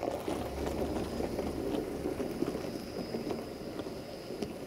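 Distant train running on the rails: a low rumble with light clatter, growing fainter near the end.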